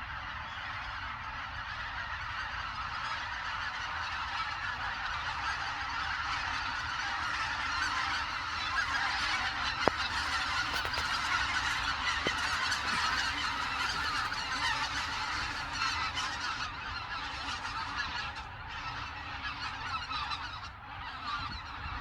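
A large flock of wild geese honking, many calls overlapping into a continuous chatter that swells through the middle and eases near the end.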